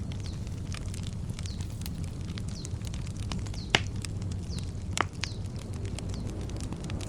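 Wood campfire crackling, with scattered small pops and two sharp, louder pops near the middle. A bird repeats a short falling chirp in the background about once a second.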